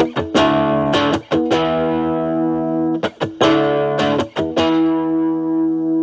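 Electric Stratocaster through an Ibanez Super Metal mini distortion pedal into a Marshall Valvestate clean channel, in a lightly driven, cleaned-up tone. A chord rings, two quick groups of choppy strums follow, and the last chord is left ringing from about four and a half seconds in.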